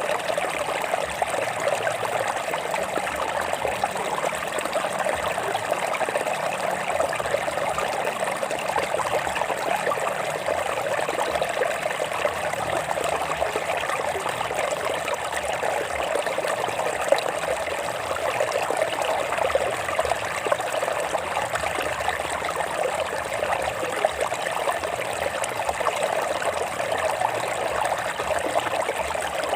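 Stream water running and trickling over rocks, a steady babbling flow.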